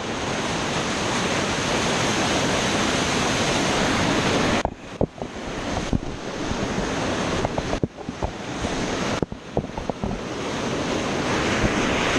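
Waterfall rushing loudly and steadily, running high with monsoon rain, with wind on the microphone. The level dips briefly a few times before the roar returns.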